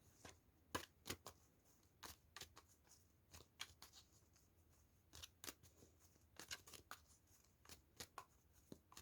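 Tarot cards being shuffled by hand: faint, irregular soft flicks and rustles of the cards against each other.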